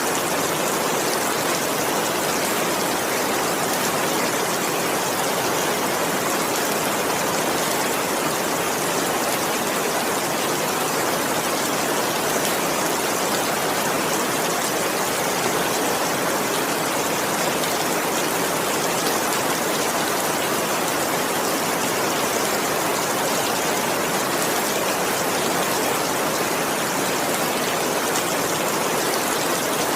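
Steady, dense rainfall: an even hiss of rain with no distinct drops or changes.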